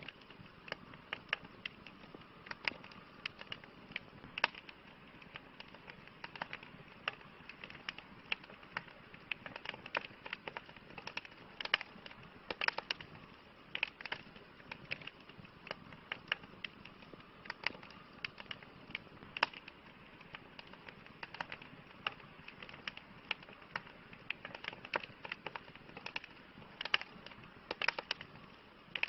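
Wood campfire crackling: irregular sharp pops and snaps, a few louder than the rest, over a soft steady hiss of burning.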